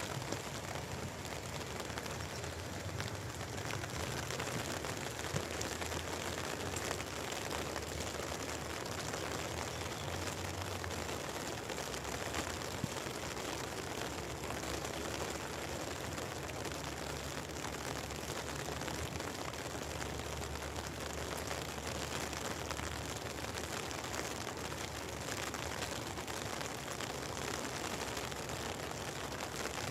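Steady rain falling, with a dense stream of small drop ticks over an even hiss.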